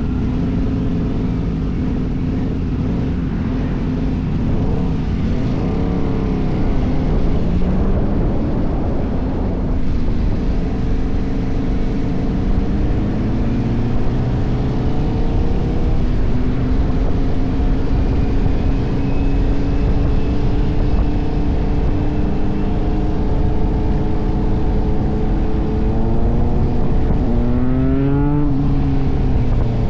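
KTM 1190 Adventure's V-twin engine running under way, with wind rush beneath it. The revs dip about a quarter of the way in, climb gradually through the middle, then rise sharply and fall back near the end.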